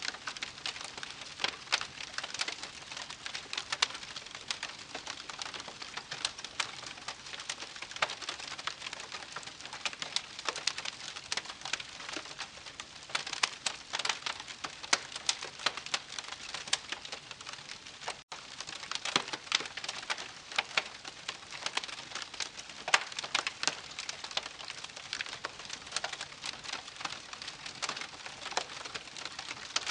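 Wood campfire crackling: a steady hiss of burning wood with frequent, irregular sharp pops and snaps, cut by a momentary dropout a little over halfway through.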